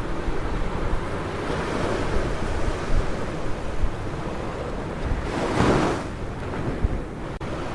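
Ocean surf breaking and washing up a beach, with one louder wave crashing about five and a half seconds in. Low wind rumble on the microphone runs underneath.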